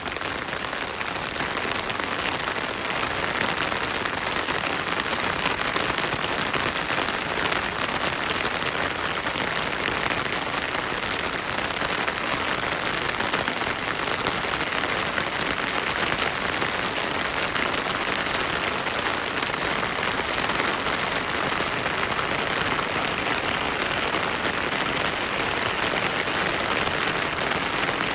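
Heavy rain falling steadily through forest, a dense, even hiss of countless drops that holds constant throughout.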